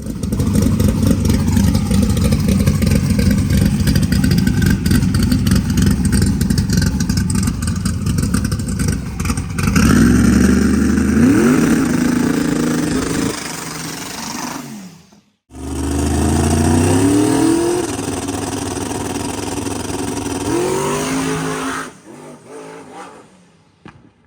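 Twin-turbo big-block drag car engine running loud and steady, then revving up in rising sweeps several times. The sound breaks off suddenly partway through and comes straight back, revving again.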